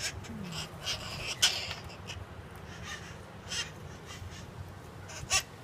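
Wild conure parrots giving short, harsh squawks, several in a row a second or two apart, the loudest about a second and a half in.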